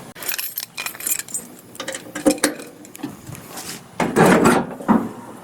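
Handling noises: a string of knocks and rattles, then a louder scraping rush about four seconds in. No engine is running.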